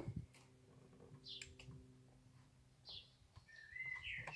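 Small birds chirping faintly: a few short, high chirps about a second and a half in, near three seconds and again near the end.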